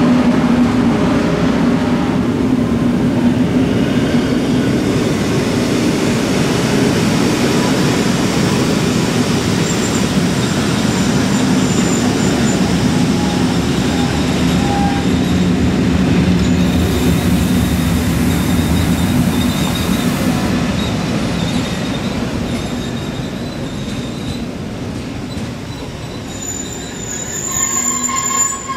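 Rhaetian Railway metre-gauge passenger coaches rolling past, wheels rumbling on the rails with thin intermittent squeals, the sound fading as the last coach goes by. A brief shrill squeal sounds near the end.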